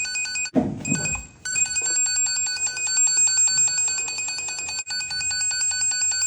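Handheld wire-tracer receiver giving a rapid electronic beep as it picks up the tracing signal on a hidden cable in the wall. About half a second in, the tone breaks off for about a second under a loud bump of handling noise, then resumes.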